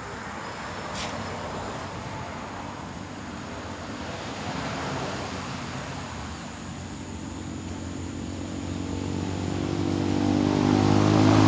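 Road traffic passing: a haze of vehicle noise swells and eases about halfway through. Then a motor vehicle's engine hum grows steadily louder toward the end as it approaches.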